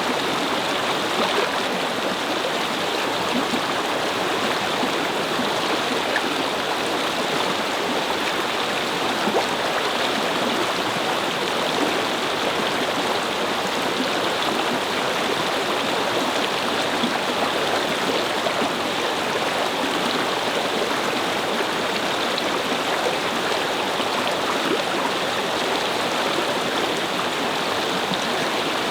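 A shallow brook babbling and flowing over stones, a steady, unbroken rush of water.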